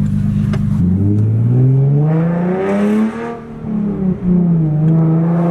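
Nissan 370Z's 3.7-litre V6 running, its pitch dropping about a second in, then climbing steadily as it revs or pulls away, easing briefly and settling to a steady note near the end.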